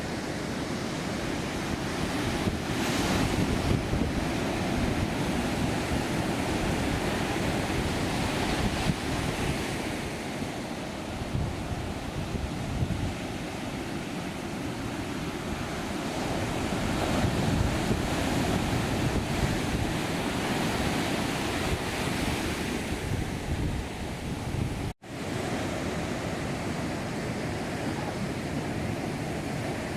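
Heavy surf from a mar de leva (ground swell) breaking and washing up the beach, swelling louder every several seconds, with wind buffeting the microphone. The sound cuts out abruptly for a split second about 25 seconds in.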